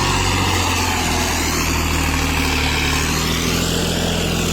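Tractor diesel engine running steadily, with a constant low drone.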